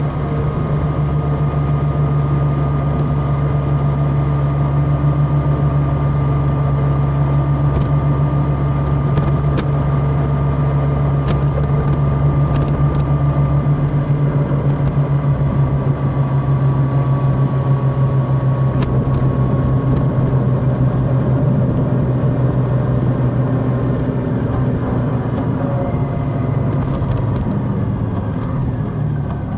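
Large motorcycle's engine running steadily while riding at a constant pace, with road and wind noise; the deepest part of the engine note eases off about halfway through.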